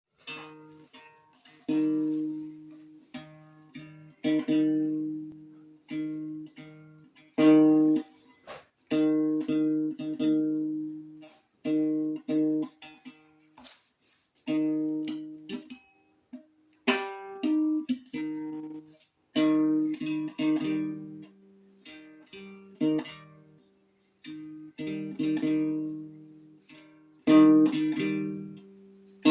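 A plucked string instrument played solo, chords strummed in short phrases with brief pauses between them.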